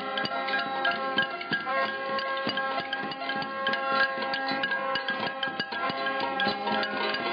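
Protest noise-making: many sharp, irregular percussive strikes over several steady ringing, bell-like tones.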